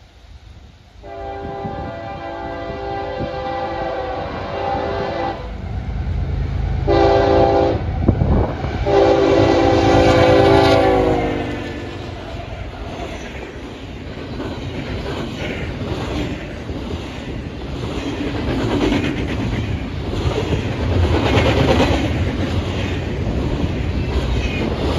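Approaching train's horn sounding three blasts, a long, a short and a long, the last dropping in pitch as the locomotive passes. Then the rumble of the locomotive and the clickety-clack of rail cars passing over the track joints.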